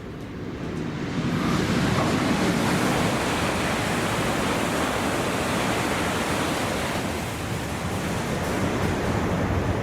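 A Shinkansen bullet train passing through the station at high speed: a loud, steady rush of air and wheel noise that builds over the first second and holds.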